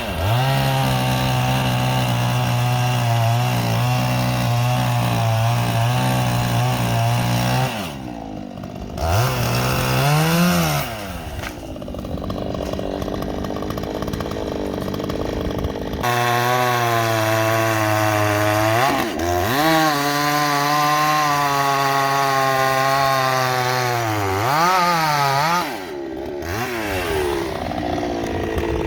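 Two-stroke chainsaw held at high revs for two long stretches, as if cutting wood, with the engine dropping back between them and revving briefly before it picks up again.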